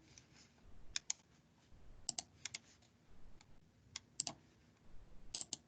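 Faint, scattered clicks of computer keys, single or in quick pairs and threes.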